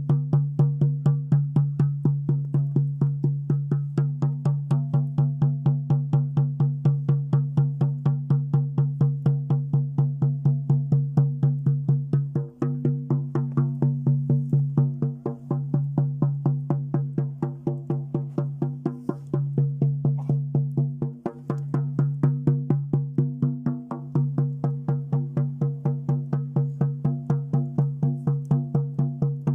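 Shaman's frame drum beaten in a steady, fast, even rhythm of about four strokes a second, its low boom ringing on between strokes. The beat falters briefly a few times.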